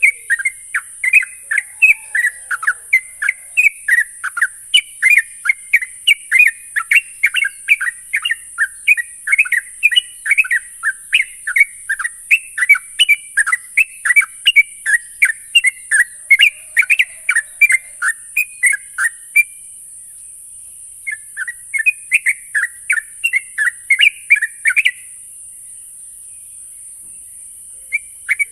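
Yellow-vented bulbul (trucuk) singing a rapid, bubbly chattering song of many short notes a second, breaking off briefly about two-thirds of the way in and again near the end. A steady high hiss runs underneath.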